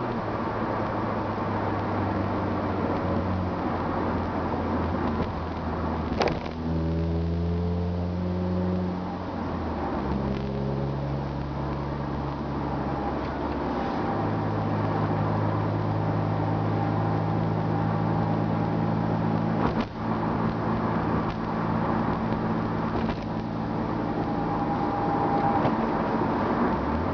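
Car engine and aftermarket mandrel-bent exhaust heard from inside the cabin with the windows up, cruising at city speed with a steady low drone. The pitch steps a few times in the first half, then holds steady in fifth gear at about 45 mph, with a couple of short clicks.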